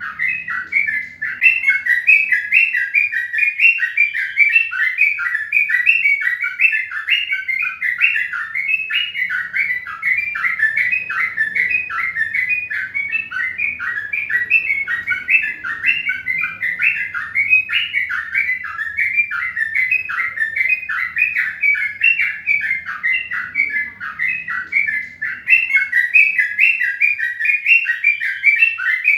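Small birds chirping without a break, a dense run of short, quick chirps, several each second.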